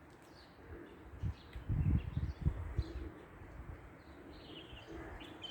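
Faint, short, high bird chirps over outdoor background noise, with several low rumbling bumps about one to three seconds in.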